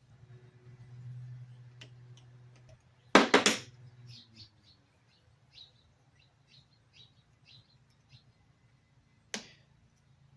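Hand tools working on an antique electric motor being taken apart: a loud double metallic knock about three seconds in and another near the end, with a run of short high chirps in between. A low hum runs under the first few seconds and then stops.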